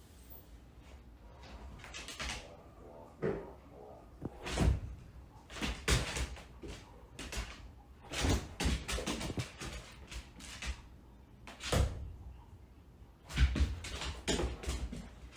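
A series of irregular knocks and bangs, like a door or cupboard door being banged repeatedly, with the loudest strikes scattered through the middle and near the end.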